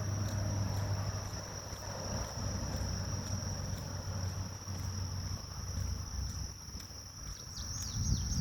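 Grass insects singing in one steady high trill over a low wind rumble on the microphone, with a few short falling bird chirps near the end.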